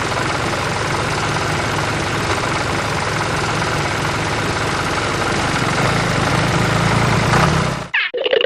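An engine running steadily with a low hum, which cuts off suddenly near the end.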